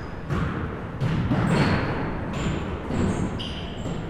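Basketball game in a gym: the ball bouncing on the hardwood floor in a few sharp thuds, with short high sneaker squeaks scattered in between.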